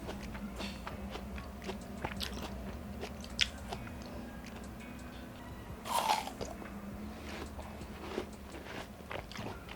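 Watermelon being bitten and chewed close to the microphone: scattered crisp, wet crunches and chewing, with a louder bite about six seconds in.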